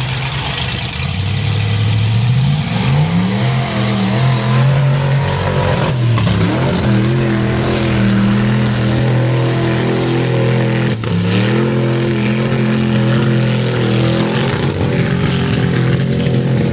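Mega truck engine running hard at high revs during a pass; the revs climb in the first few seconds, then twice dip briefly and climb again, about six and eleven seconds in.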